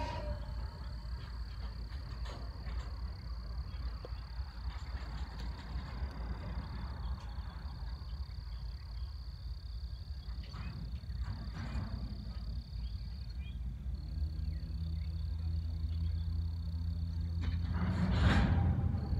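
Freight cars rolling slowly over the track with a low rumble and a few clanks, under a thin steady high-pitched whine. From about two-thirds of the way through, a diesel locomotive's engine hum comes in and grows louder.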